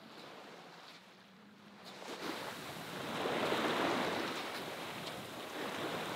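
Sea water washing along a sailboat's hull on open water. It swells up about two seconds in, eases off, and starts to build again near the end.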